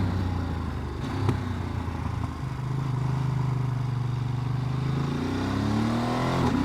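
Ducati DesertX's V-twin engine running while riding, holding a steady pitch and then rising as the bike accelerates about five seconds in.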